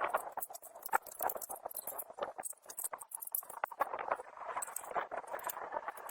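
Irregular light clicks and taps with scratchy scraping between them.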